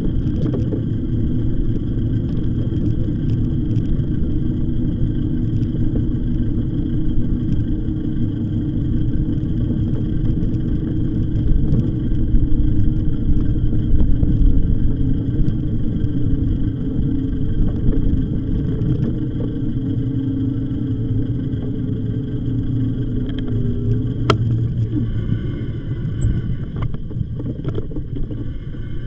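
An e-bike in motion: a steady low rumble of riding noise with a held hum over it, the hum dropping away about 24 seconds in.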